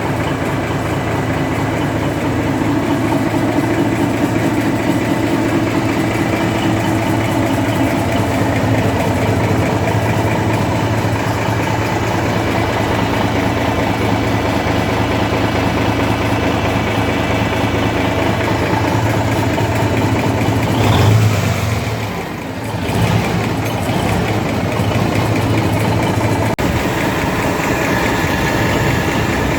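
Cummins NTA855-C280 turbocharged inline-six diesel running steadily during its run-in after a rebuild. About 21 seconds in there is a brief louder swell, then a short dip, before it settles back to the same steady running.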